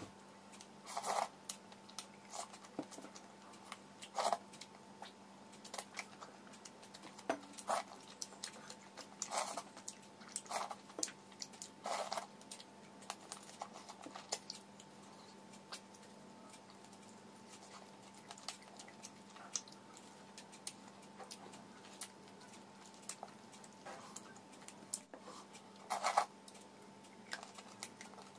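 Close-miked eating by hand: chewing and wet mouth smacks as pieces of spicy country chicken curry with fermented water rice (pakhala) are eaten, heard as scattered short clicks and smacks at irregular intervals over a faint steady hum.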